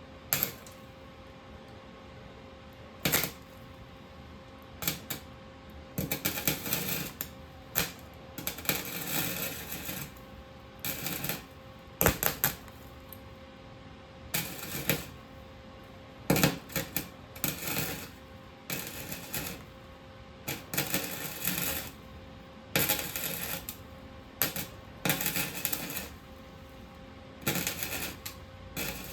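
Wire-feed welder laying short tack welds: repeated bursts of crackling and sputtering, each lasting from a fraction of a second to about a second and a half, with pauses between. There are a few single sharp clicks in the first few seconds.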